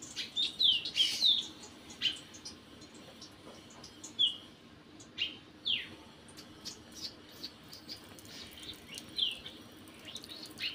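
Bird calls: short, clear notes sliding down in pitch. They come in a quick cluster, loudest in the first second or so, then singly every few seconds, over faint high chirps.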